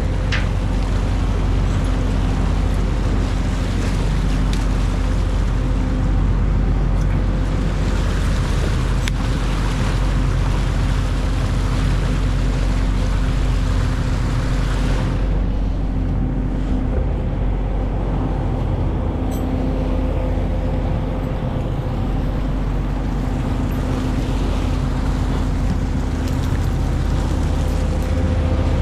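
A prawn trawler's engine running steadily at sea, with a wash of water and wind over it; the hiss of water and wind fades about halfway through while the engine drone carries on.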